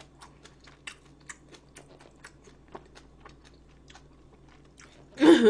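Close-miked chewing: a run of small, irregular crunchy mouth clicks as food is chewed. A short burst of voice comes in near the end.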